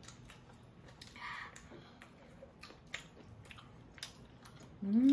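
Quiet chewing and eating mouth sounds of people eating tteokbokki rice cakes, with scattered small clicks of chopsticks. Near the end a person's voice comes in, sliding up and then down in pitch, the loudest sound.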